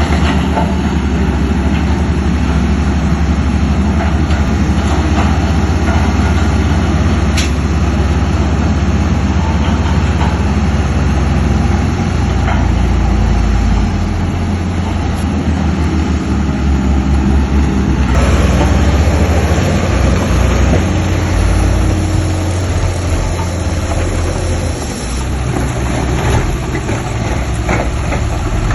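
Heavy diesel engines of earthmoving machinery running loudly and continuously with a low throb. The engine note shifts about two-thirds of the way through, and there are a few isolated clanks.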